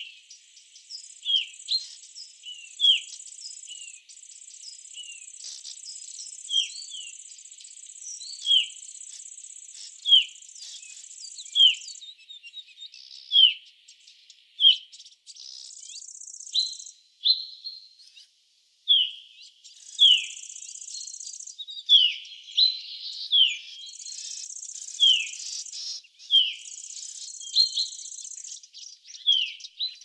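A small bird calling over and over, short falling chirps about once a second, with a steady high-pitched buzz that stops and starts several times.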